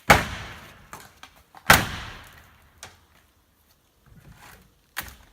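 Two heavy demolition impacts about a second and a half apart, each followed by a clatter that dies away over about a second, then a few lighter knocks.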